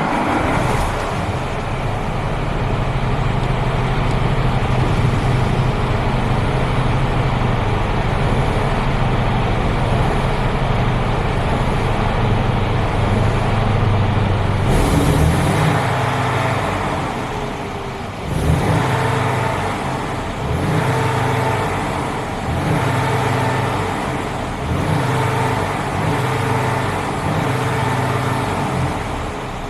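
Mercedes-Benz Actros 2545 truck's six-cylinder diesel engine running just after start-up, settling into a steady idle. About 18 seconds in it jumps louder, then keeps swelling and easing roughly every two seconds.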